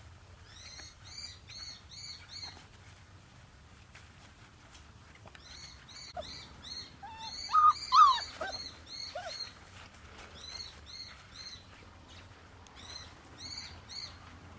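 A songbird singing repeated runs of short, high chirps, about four a second, in several bursts. About eight seconds in, a young puppy gives a few brief, louder yelps and whines.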